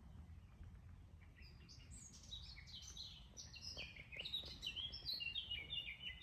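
A songbird singing a long, rapid song of short downslurred whistled notes, starting about a second in and growing louder and denser toward the end, over a faint steady low rumble.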